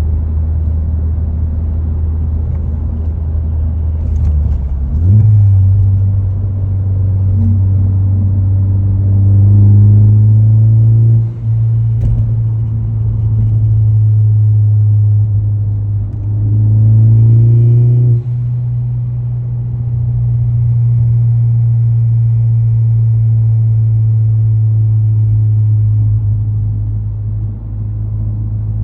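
Ford Focus ST engine running at raised revs, stepping up in pitch about five seconds in and again around seventeen seconds, then holding steady. It is held in the 3000–3500 rpm range where it makes a rattling sound.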